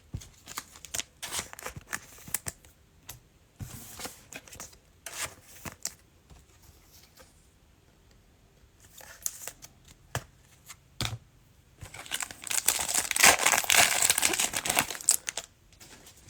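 A trading-card cello pack's plastic wrapper being handled and torn open, with crinkling and cards rustling. The loudest stretch of tearing and crinkling comes about twelve seconds in and lasts a few seconds.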